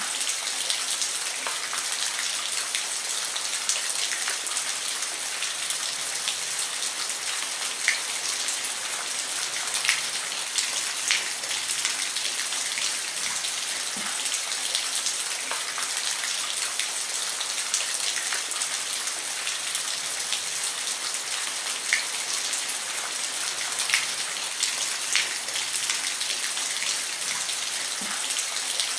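Steady rain falling on a roof, an even hiss with scattered louder individual drop ticks.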